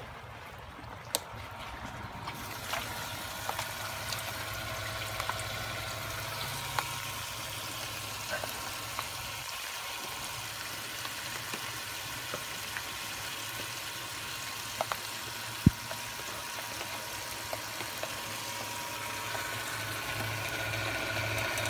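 Small electric bilge pump running with a steady low hum while water pours and splashes from it, with scattered small clicks and drips. The float switch is still up, so the pump keeps running until the water drops below it.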